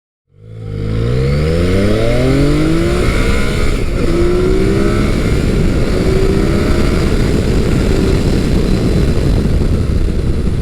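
Big-bore motorcycle engine under hard acceleration: the note climbs steeply over the first few seconds, drops briefly about four seconds in as it shifts up, then climbs again through further gears before fading out near the end.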